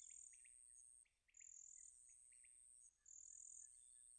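Near silence, with faint high-pitched insect chirping: alternating thin trills and short chirps, like crickets in the background.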